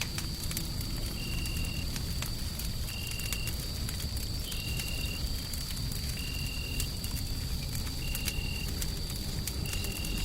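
Wood fire crackling with scattered small pops over a steady low rumbling noise. A thin high whine runs throughout, and a short high tone repeats about every second and a half.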